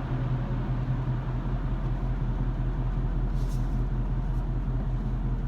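A Mustang's built 4.6-litre four-valve V8 idling steadily with a low, even hum, under a steady rushing noise.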